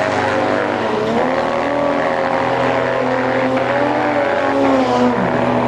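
Several drag-racing vehicle engines running at once, held at a steady speed, their pitch drifting slowly up and down.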